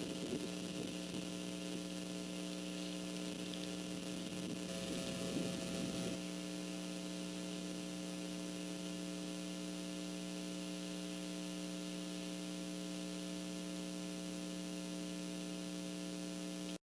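Steady electrical hum in several pitches from the nest camera's audio line, with gusts of wind buffeting the microphone for about the first six seconds. The sound cuts off suddenly near the end.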